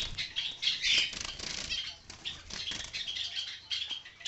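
A flock of small cage birds, budgerigars and finches, chirping and chattering continuously, with many short calls overlapping.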